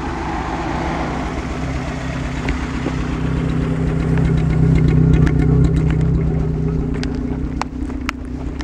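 A car engine running as the vehicle drives slowly past, growing louder to a peak about halfway through and then fading. A few sharp clicks near the end.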